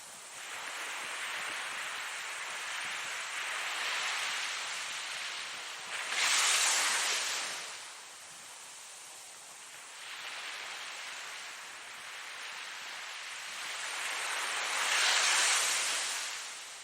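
Ocean surf: two waves break about nine seconds apart, each swelling to a loud wash of water and then falling away.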